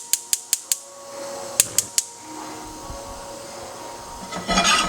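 Gas stove burner's spark igniter clicking rapidly, about five clicks a second, then three more clicks, as the burner is lit under the oil. A brief clatter near the end.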